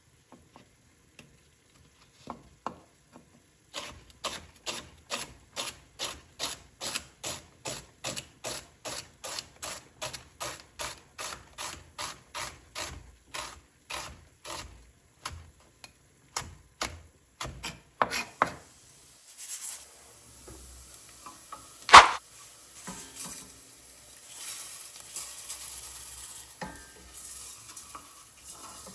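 Knife chopping fennel on a cutting board at a steady pace of about three cuts a second. Then one sharp clank, and a soft steady sizzle as rice toasts in the pan and is stirred.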